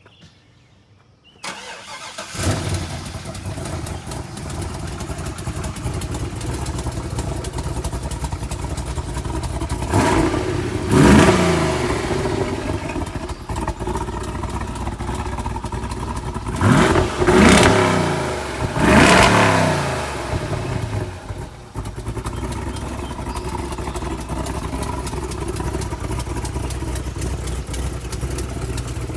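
Cold start of a Chevrolet SS's 6.2-litre LS3 V8 with a Texas Speed stage 2 camshaft: a short crank, then it catches about two seconds in and settles into a steady idle. It is revved several times in the middle, each rev climbing and falling back to idle, then idles on.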